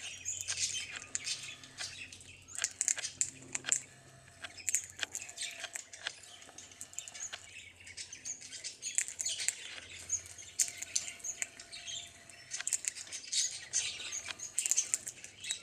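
Birds chirping and tweeting in quick, scattered high notes, mixed with short clicks throughout.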